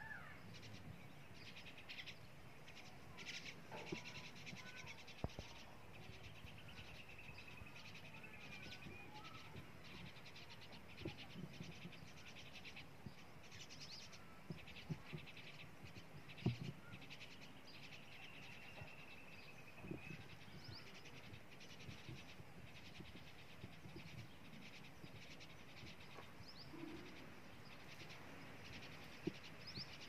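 Small birds chirping and twittering throughout, faint, with a few brief low knocks, the loudest about halfway through.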